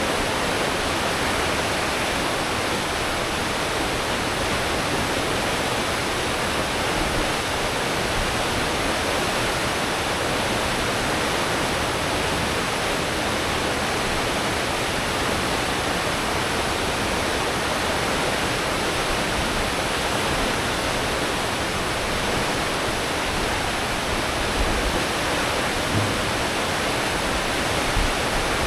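Steady rushing churn of a cruise ship's propeller wake at full speed, water and engine noise blended into one even roar. A few brief low thumps near the end.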